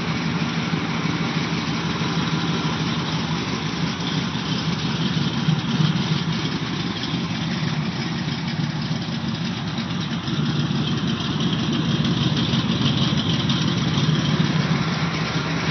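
1969 Chevrolet Corvette's 427 big-block V8 idling steadily through its side-exit exhaust pipes. It grows a little louder about two-thirds of the way through.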